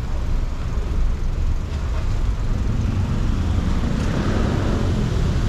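City street traffic on a wet road: a steady run of vehicles passing with low engine rumble and tyre hiss.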